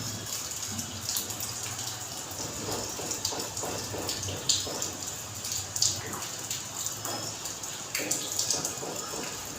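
Rain falling, with irregular drips and splashes of water throughout.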